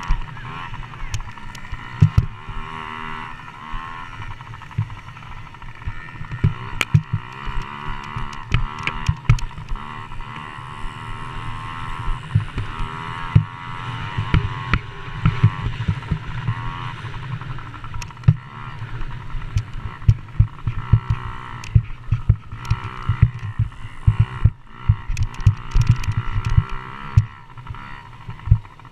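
Motocross dirt bike engines revving and changing pitch as they race around the track, with frequent low thumps on the microphone.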